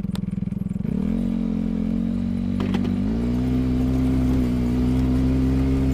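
Vehicle engine idling with a pulsing beat, then picking up speed about a second in and again near three seconds, settling into a steady higher drone as the vehicle moves off.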